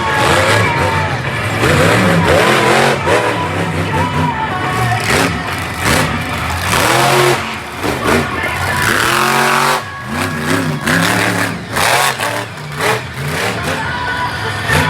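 Monster truck engine revving hard, its pitch repeatedly rising and falling as the throttle is blipped and released.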